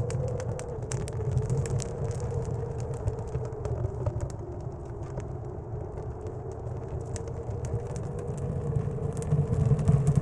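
Blizzard wind blowing with a low rumble and a slowly wavering howl, with scattered sharp crackles from a wood stove fire.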